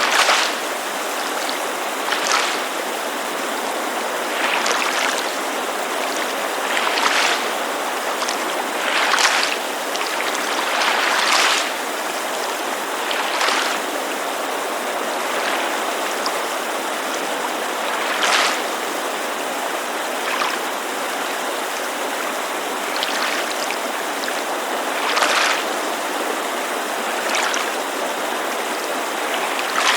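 A steady rush of creek water, with small waves lapping against a lake shore in soft swells every two seconds or so.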